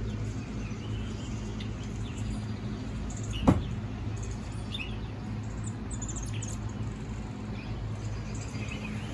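Birds chirping from a nature video played through an iPhone speaker: short scattered chirps over a steady low hum. One sharp knock about three and a half seconds in.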